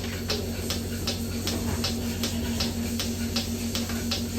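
Goat milking machine running: a steady hum from the vacuum pump, with the pulsator clicking evenly about three times a second.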